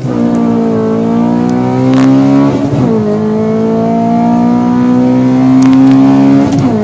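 2008 Honda Civic Si's 2.0-litre four-cylinder engine, breathing through a Skunk2 aftermarket exhaust, pulling under acceleration. The engine note climbs steadily in each gear and drops sharply at two upshifts, the first a little under three seconds in and the second near the end.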